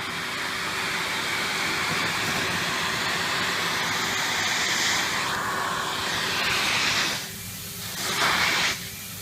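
Henry cylinder vacuum cleaner running, with a steady hiss of air rushing through the hose and nozzle as it sucks up crumbs. The hiss drops away about seven seconds in, comes back briefly, then drops again near the end.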